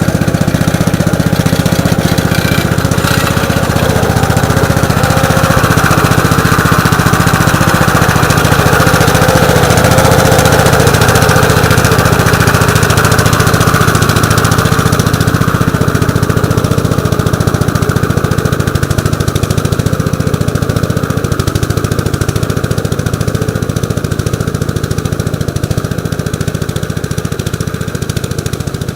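1948 Gravely Model L walk-behind tractor's engine running steadily, driving its rotary plow through wet garden soil.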